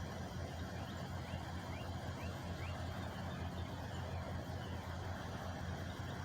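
Truck engine idling with a steady low hum. A few short, high rising chirps come through about two seconds in.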